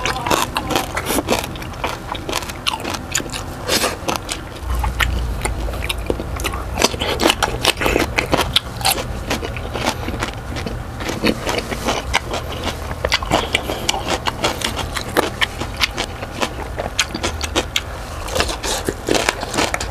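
Close-up chewing and crunching of crispy deep-fried pork belly (lechon kawali), its crackling skin giving many sharp, irregular crunches and crackles between wet chewing.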